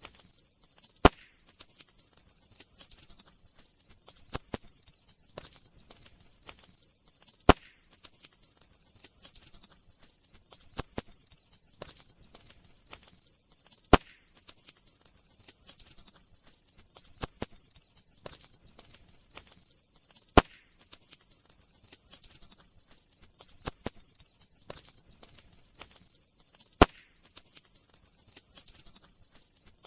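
Crackling campfire: scattered small crackles over a faint steady hiss, with a sharp loud pop about every six and a half seconds.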